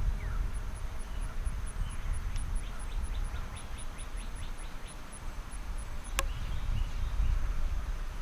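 Low rumble of wind on the microphone, with birds chirping over it, including a quick run of falling chirps in the middle. A single sharp click about six seconds in.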